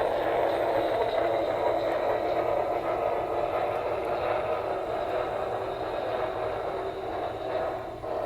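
Sound system of an HO scale Norfolk and Western Y6B model steam locomotive playing steady steam-engine running sounds through its small speaker as the model runs forward on the track.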